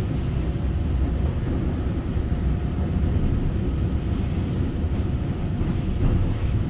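Taiwan Railway EMU900 electric multiple unit running, heard inside the carriage: a steady low rumble of wheels on rails with faint steady tones above it.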